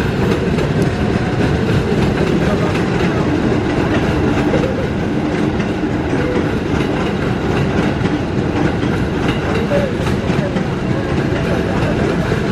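JR 205 series electric commuter train rolling along the station track: a steady rumble with many small wheel clicks over the rails.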